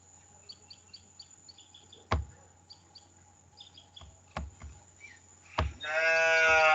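Birds chirping faintly, with a few sharp clicks. Near the end comes a loud, drawn-out call from a farm animal lasting about a second, picked up on an open microphone somewhere in the online call.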